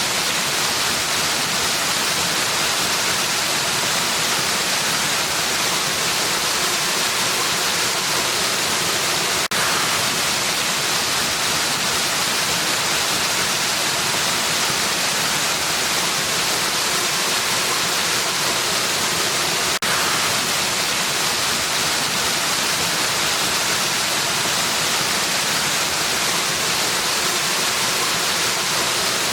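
Waterfall, a steady, hissy rush of falling water, with a brief dip in level about every ten seconds.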